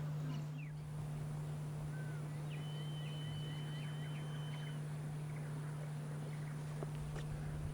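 Faint high bird calls, including a short run of quick chirps and one held whistled note early on, over a steady low hum.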